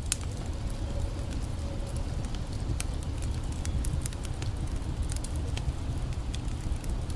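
Campfire crackling, with scattered sharp pops over a steady low rushing background.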